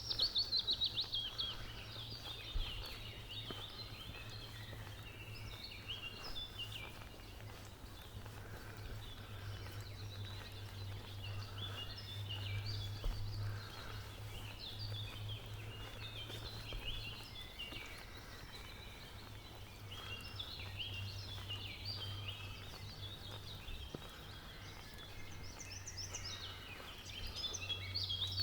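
Forest songbirds singing in a busy chorus of short chirps and trills, opening with a fast trill that falls in pitch. A steady low rumble runs underneath.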